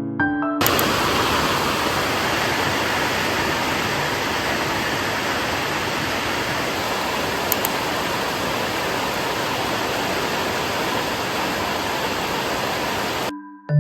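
Heavy rain falling, a dense, steady hiss that cuts in abruptly about half a second in and cuts off abruptly near the end.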